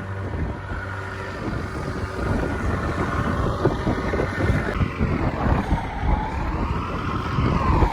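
Small boat's engine running at sea, its whine wavering up and down in pitch in the second half, with wind buffeting the microphone.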